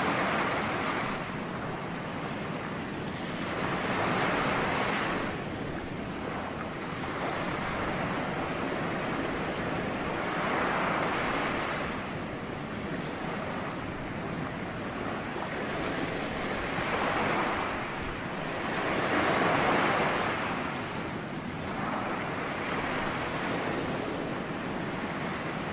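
Ocean waves breaking and washing on the shore, a steady surf hiss that swells with each wave every few seconds.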